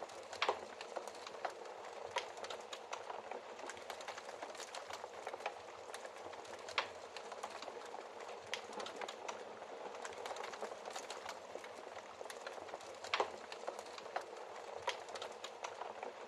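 Wood fire crackling in a fireplace: a steady hiss dotted with many small snaps, and a few louder pops about half a second in, near the middle, and near the end.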